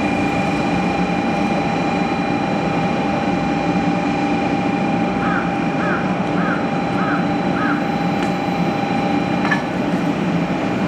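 Steady hum and hiss of a stationary Shinkansen train's onboard equipment, with several fixed whining tones. Five short chirps about half a second apart come about halfway through, and a single click near the end.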